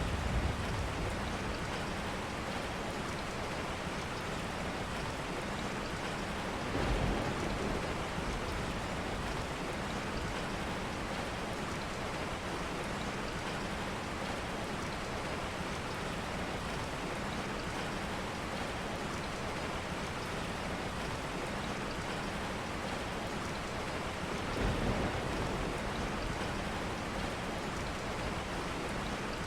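Steady rain falling, an even hiss. Two short low rumbles rise over it, about a quarter of the way in and again near the end.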